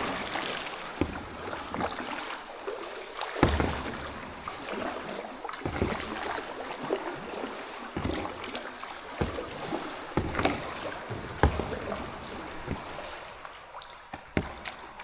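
Kayak being paddled on flat water: splashing and dripping from the paddle, with sharp knocks at uneven intervals of a second or two.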